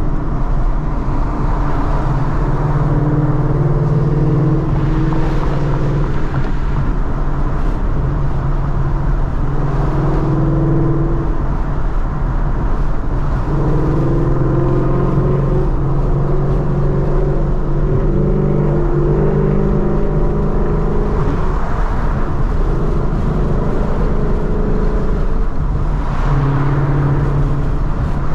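2014 Ford Mustang GT's 5.0 V8 engine and exhaust droning steadily while driving, its pitch shifting slightly now and then with light throttle.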